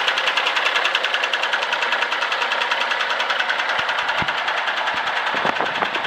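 1986 Kenworth W900 dump truck's diesel engine running steadily with a fast, even clatter, with a few faint low thumps in the second half.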